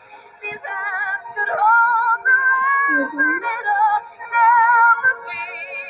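Music with a woman's singing voice, long notes sung with a wide vibrato.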